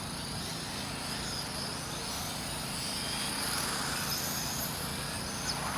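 Electric RC race cars running on an outdoor track: a steady hiss of background noise with faint high motor whines that rise and fall as cars pass, most noticeable near the end.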